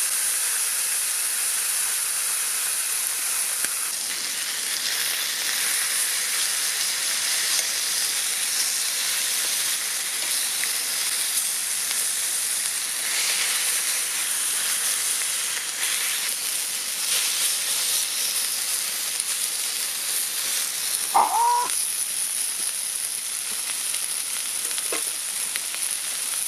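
Food sizzling as it fries in a pan, a steady hiss throughout, with a brief squeak about three-quarters of the way through.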